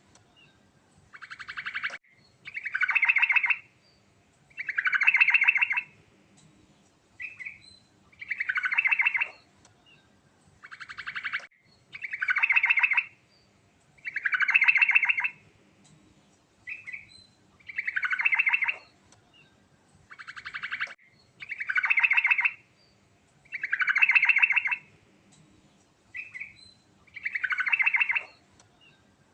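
Sooty-headed bulbul (trucukan) singing: a loud, rapid trilled phrase repeated about every two seconds, with short separate notes between some of the phrases.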